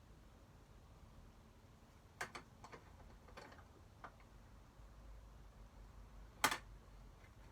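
A few light clicks and taps of small items being handled on the wooden toolbox, then one sharper knock near the end.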